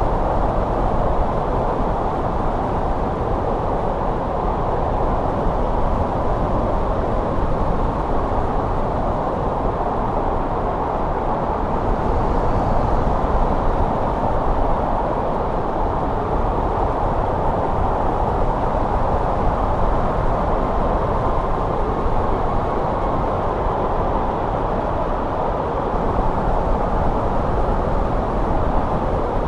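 Snow wind blowing steadily: an even, deep rushing noise with no distinct gusts or changes.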